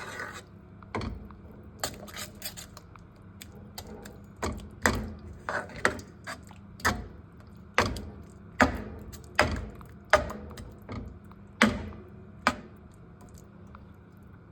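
A spoon stirring thick stew in a pot, knocking and scraping against the pot in irregular clicks, over a low steady hum.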